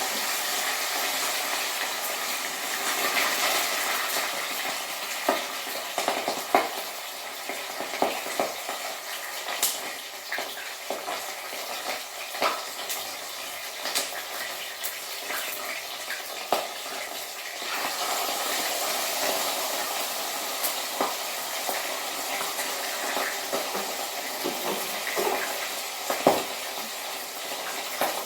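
Parrotfish frying in very hot oil in a pot: a steady sizzle with frequent sharp crackles and pops of spattering oil.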